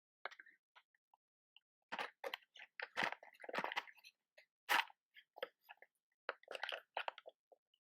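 Irregular close-up clicks, taps and scratchy crackles from handling a box of matches, with one sharper scratch just before the middle.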